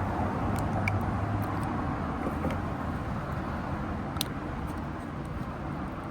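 Steady road-vehicle noise: a low rumble with a faint hum, slowly easing off, and a few faint ticks.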